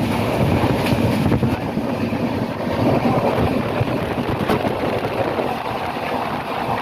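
A moving passenger train, heard as a steady rumble of running noise with a few faint clicks.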